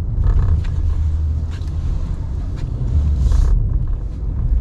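Ram 1500 Classic pickup engine running with a steady low rumble as the truck moves to plow snow, with a brief hiss about three seconds in.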